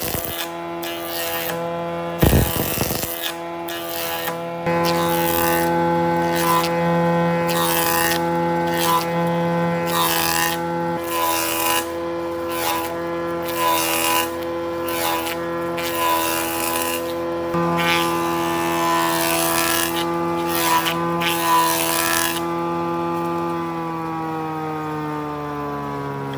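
Electric power tool motor running at a steady whine while it works wood in repeated short strokes. About three quarters of the way through the strokes stop and the motor winds down, its pitch slowly falling.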